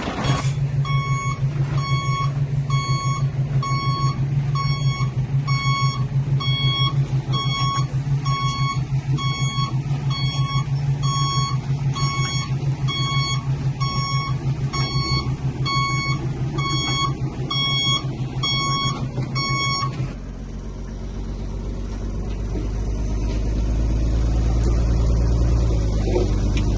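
Diesel earthmoving vehicle's reverse alarm beeping steadily over its running engine. About 20 seconds in the beeping stops and the engine's deeper rumble grows louder.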